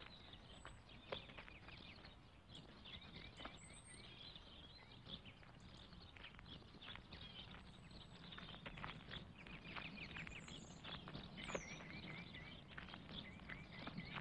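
Faint birdsong: short chirps and trills from small birds, over scattered clicks and a steady low hum.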